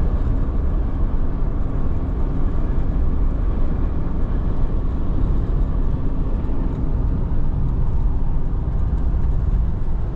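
Car driving at speed: a steady, loud road and wind noise, heaviest in the low end.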